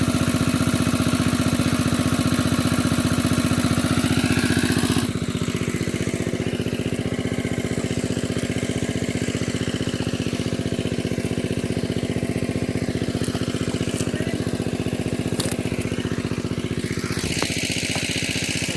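A small engine running steadily at a constant speed with an even firing rhythm, a little quieter from about five seconds in.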